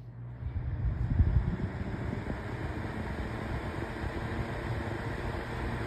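Holmes Blizzard Junior small electric fan starting up on its low speed: the rush of air builds over about the first second, then runs steadily.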